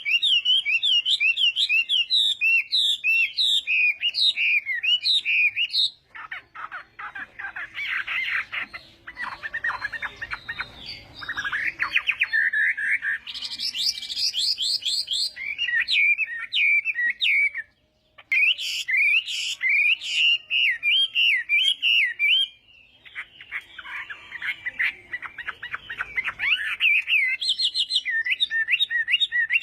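Chinese hwamei (họa mi) singing a long, varied song. Loud, rapidly repeated whistled phrases alternate with softer, lower twittering passages, with a brief pause about eighteen seconds in.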